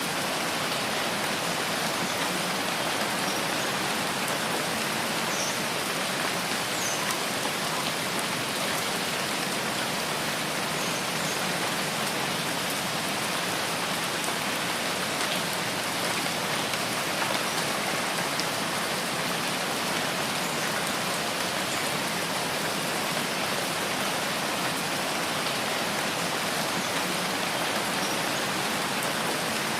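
Steady rain falling, an even hiss with a few light drop ticks, as heard by a window.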